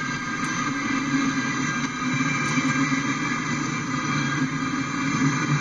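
Freight train tank cars rolling past: a steady rumble of steel wheels on the rails.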